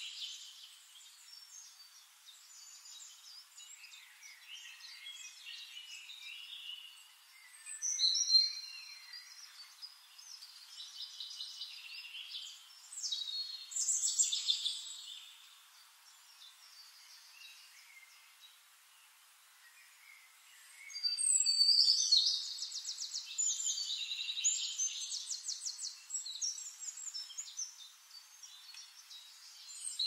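Songbirds singing: overlapping chirps and song phrases, louder about eight seconds in and around fourteen seconds, then a long stretch of fast trills from about twenty-one seconds on.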